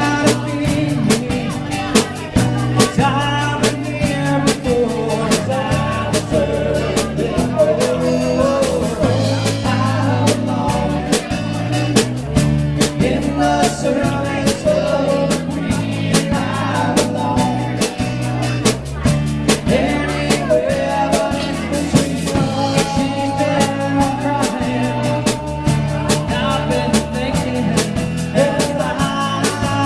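Live rock band playing a song with drums, bass and guitar, with a voice singing over it.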